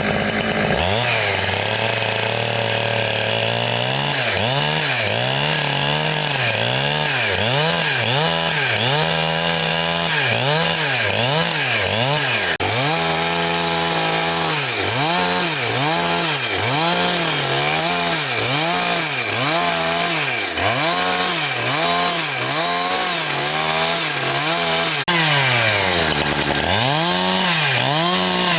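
Two-stroke chainsaw running hard, its engine note dipping and climbing back about once a second as it cuts through wood.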